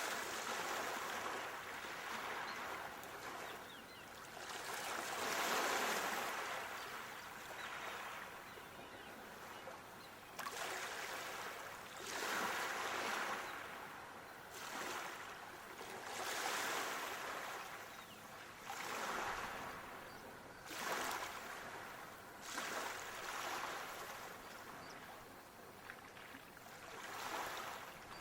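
Moving water: a rushing hiss that swells and fades every two to four seconds, like small waves washing in.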